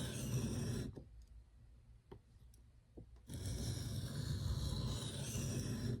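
Nitro-V steel knife blade being stroked by hand across a sharpening stone: a steady scraping that stops about a second in, a few light clicks, then scraping again from about three seconds in. This is edge grinding to even out the scratch pattern along the bevel.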